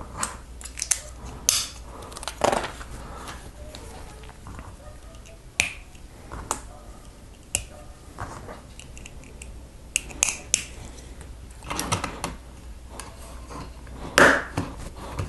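Plastic Lego pieces clicking as they are handled and pressed into place, a string of sharp, irregularly spaced clicks, with the loudest near the end.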